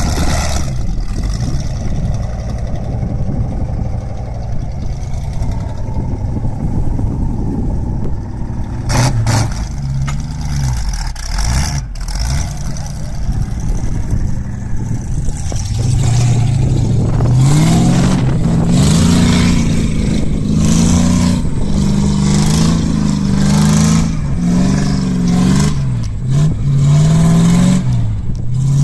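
GAZ-66 truck engine running, then revving up and down repeatedly through the second half, with a couple of sharp knocks about nine seconds in.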